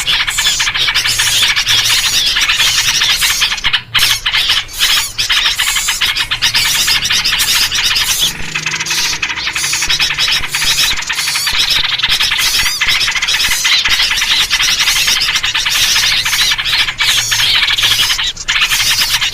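Dense chorus of many small birds chattering, chirping and calling over one another without a break, a noisy lure recording built around yellow-vented bulbul (trucukan) calls.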